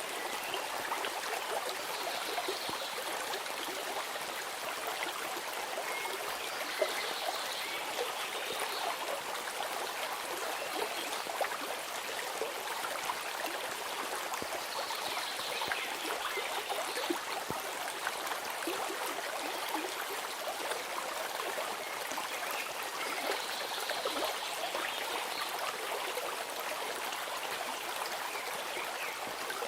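A stream of water running steadily, its flow even and unbroken.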